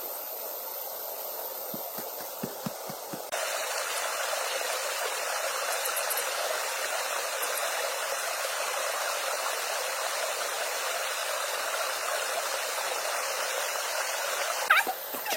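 Steady rush of water that gets louder and brighter about three seconds in. A few faint low thumps come early on, and sharp high squeaks or chirps start just before the end.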